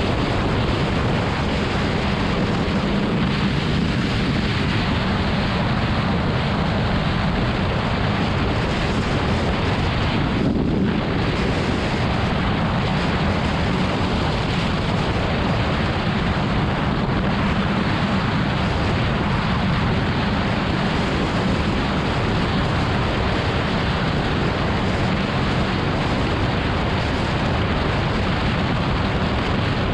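Wind buffeting the microphone on a BMW S1000RR sportbike at highway speed, with the motorcycle's engine running steadily underneath. The wind noise dips briefly about ten seconds in.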